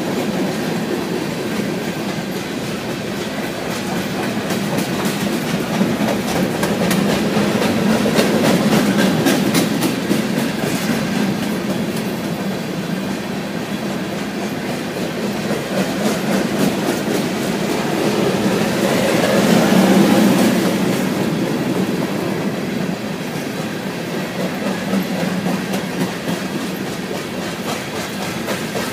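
Freight train of covered hopper cars rolling past close by, wheels clacking rhythmically over rail joints over a steady rumble. It swells louder twice, about a third and about two thirds of the way through.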